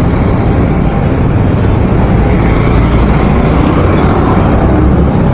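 Steady, loud noise of a motorcycle on the move, from engine and road.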